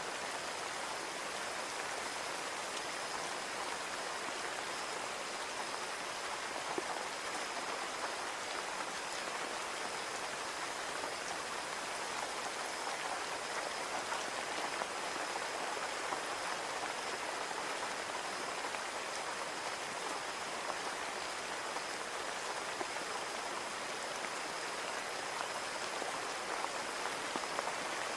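Steady rain falling on a window pane, an even hiss of drops with scattered single taps.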